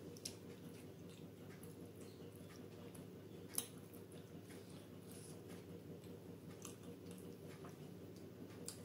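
Soft chewing and wet squelches of fingers scooping paneer through thick butter gravy on a plate, with scattered small clicks, the sharpest about three and a half seconds in.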